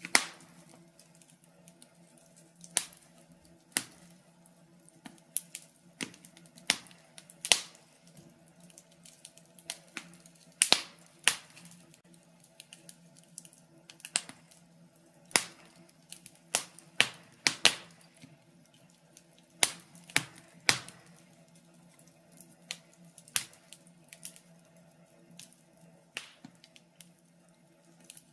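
Wood fire crackling in a fireplace: irregular sharp pops and snaps, a few a second at most and some much louder than others, over a faint steady hum.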